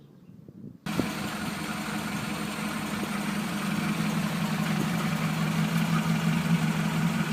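Ford Pinto 2-litre OHC four-cylinder petrol engine idling steadily after a new cam belt, tensioner and water pump have been fitted; the sound cuts in abruptly about a second in.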